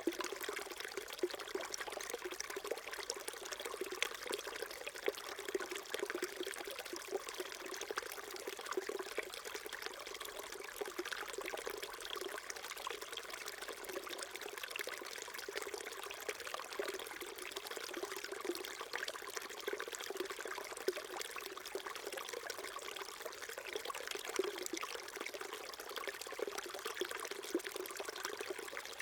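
Small stream flowing steadily, water burbling and trickling over stones.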